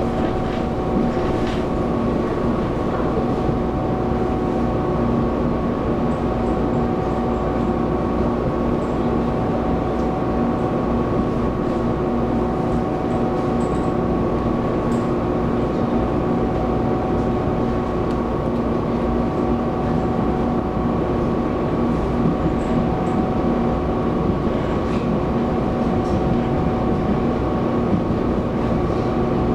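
Running sound of a Taiwan Railways EMU700 electric multiple unit heard inside the car at a steady cruising speed: a constant hum of several fixed pitches over the rumble of wheels on track, with a few faint ticks.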